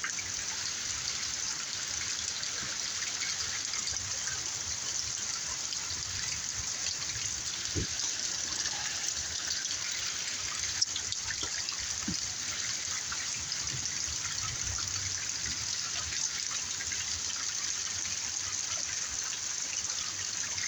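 Heavy rain pouring down with water running and trickling, a steady even hiss.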